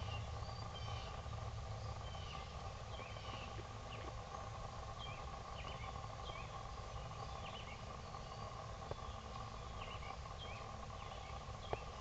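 Faint outdoor bird chirps and short calls scattered throughout, several a second at times, over a steady low rumble and a constant hum.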